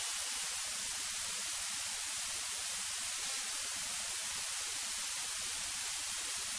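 Steady high-pitched hiss from the aircraft's intercom audio feed while nobody is talking; no engine sound comes through.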